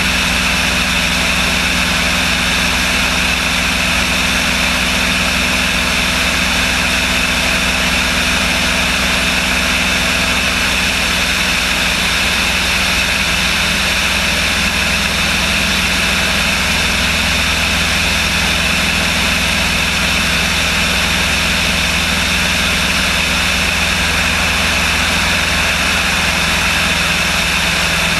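Aircraft engine running with a steady, unchanging drone, its pitch holding level throughout.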